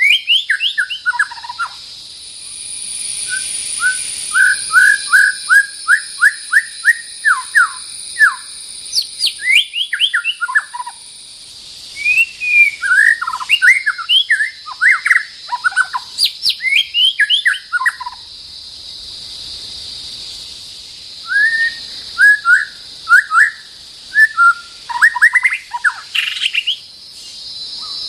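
White-rumped shama singing: runs of quick, clear whistled notes and rapid repeated phrases, in four bouts separated by short pauses.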